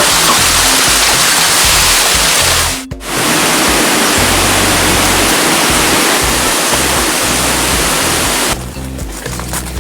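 Heavy rain as a dense, steady hiss, with background music underneath. It cuts out for a moment about three seconds in. Near the end the rain gives way to a quieter run of sharp ticks and knocks.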